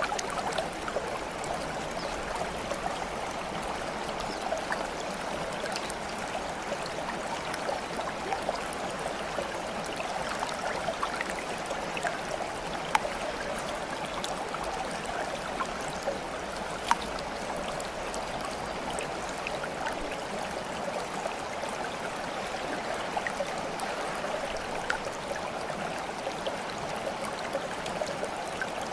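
Steady flowing water of a small stream, trickling and gurgling, with many small drips and plops scattered through it.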